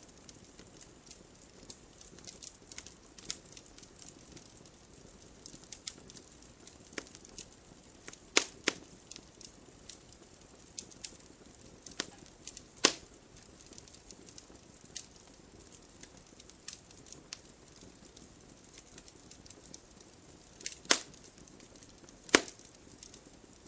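Wood fire crackling: irregular sharp pops and snaps over a faint hiss. A few louder pops come about a third of the way in, about halfway, and twice near the end.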